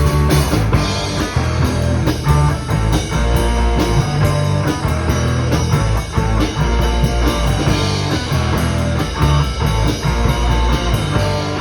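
Rock band playing an instrumental passage: electric guitar over bass and a drum kit keeping a steady beat.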